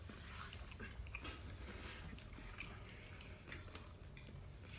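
Quiet chewing of jjajangmyeon noodles, with scattered faint clicks of chopsticks and a fork against the dishes.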